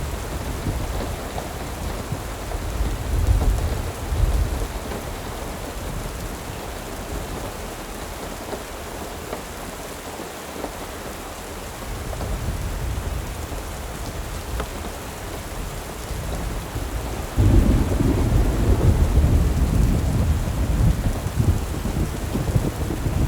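Steady rain with rolling thunder rumbling low beneath it. A heavier, louder rumble sets in suddenly about three-quarters of the way through and keeps going.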